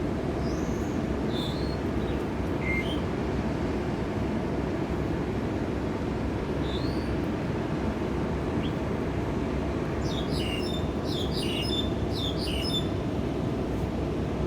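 Birds chirping over a steady low background rumble: a few scattered chirps at first, then a quick run of many chirps about ten seconds in.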